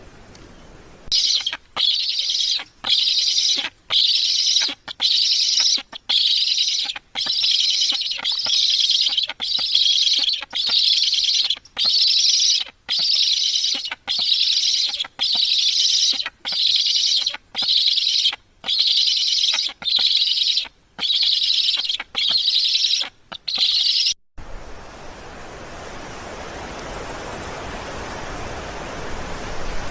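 Black stork at the nest giving a rasping, hissing call over and over, about once a second, some twenty times, then stopping suddenly. After it a steady rushing noise slowly grows louder.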